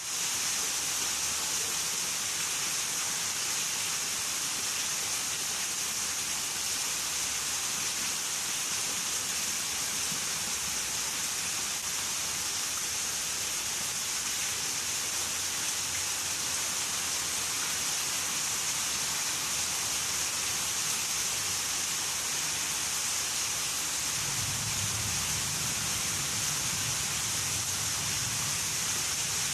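Heavy tropical summer rain pouring down steadily: a dense, even hiss. A low rumble joins in near the end.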